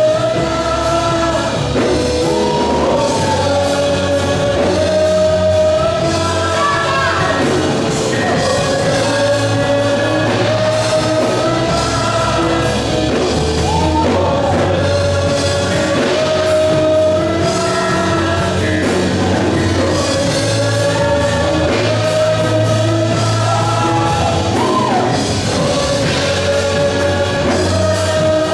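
Rock music with singing: a full band under a singer who holds long, sustained notes over a steady bass.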